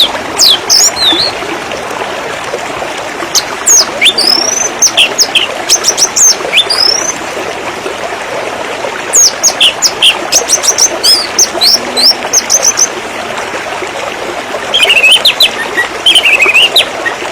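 Steady running water, with a songbird chirping and whistling over it in bursts of rapid, quick calls separated by short pauses.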